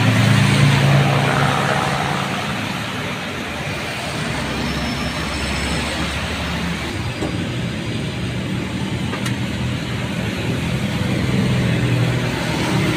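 Road traffic on a wet road in the rain: a steady hiss of tyres and rain, with the low hum of a heavy engine loudest near the start and again near the end as vehicles pass.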